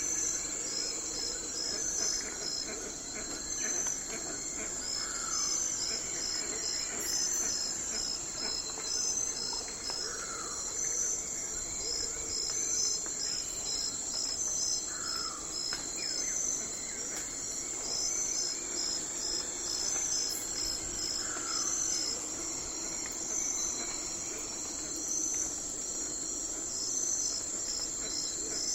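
Night forest ambience: crickets and other insects trill and chirp steadily in a continuous high chorus. A short falling call from another animal repeats every few seconds.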